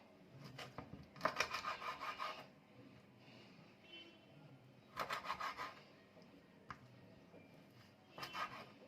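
Kitchen handling noise during food preparation: three short bursts of rapid scraping and rubbing strokes, about a second in, about five seconds in and near the end.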